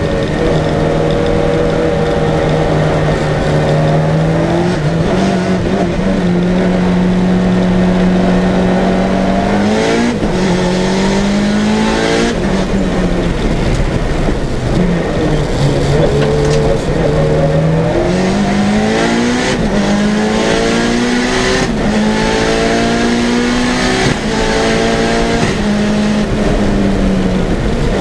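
Lancia Delta Integrale 16v's tuned turbocharged four-cylinder engine under hard driving on track, its pitch repeatedly climbing under throttle and dropping at gear changes and lifts.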